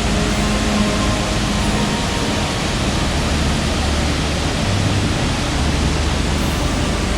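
Waterfall rushing: a loud, steady wash of water noise that does not change.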